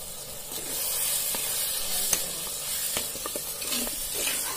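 Prawn and onion masala frying in oil in a clay pot, a steady sizzle, with a perforated steel ladle scraping and tapping against the pot a few times as it is stirred in with freshly added red chilli powder.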